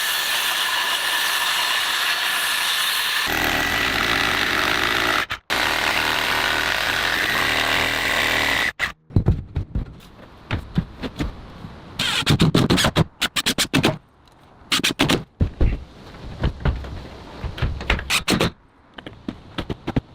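Log-cabin construction work: a power tool runs steadily for several seconds and cuts off sharply, then irregular knocks and bangs follow, as of tools striking timber.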